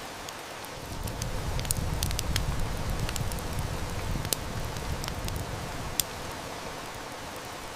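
Wood fire crackling, with scattered sharp snaps, over the steady hiss of heavy rain. A low rumble swells about a second in and eases off after about six seconds.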